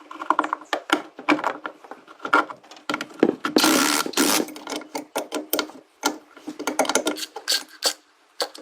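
Tools clicking and knocking in irregular strokes, with a short burst of hiss about three and a half seconds in.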